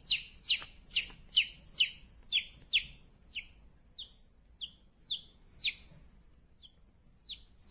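A bird giving a rapid run of short, high chirps, each sliding down in pitch, about two to three a second, fading and thinning out after about three seconds.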